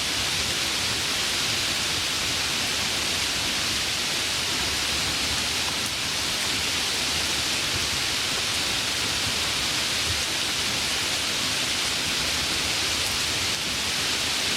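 Steady rain: an even hiss of falling rain that holds unchanged throughout.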